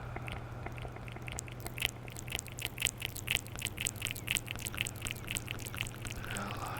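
Close-miked ASMR mouth sounds: a rapid run of wet mouth clicks and tongue smacks, several a second, that stops shortly before the end.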